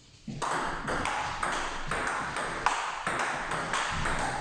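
Table tennis rally: the ball clicking back and forth off the bats and the table in quick succession, beginning about a third of a second in.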